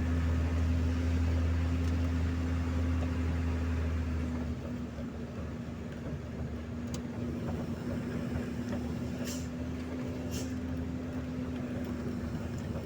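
A motor running with a steady low hum, which drops in level about four and a half seconds in and then carries on. A few short clicks come later on.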